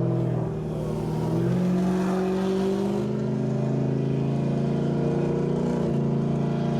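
A car engine drones steadily while driving, its pitch stepping up and down slightly a few times.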